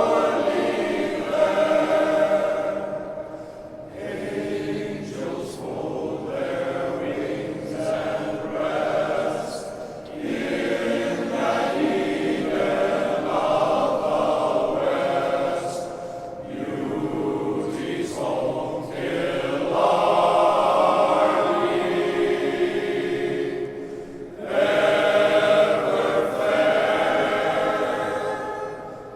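Men's glee club choir singing in phrases, sustained chords with short breaks between phrases.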